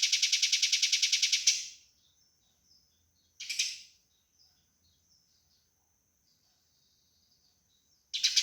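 Eurasian tree sparrow giving harsh, fast fighting calls: a rapid even run of rasping notes, about ten a second, that breaks off after a second and a half. A short burst comes about three and a half seconds in, then faint chirps, and the fast run starts again near the end.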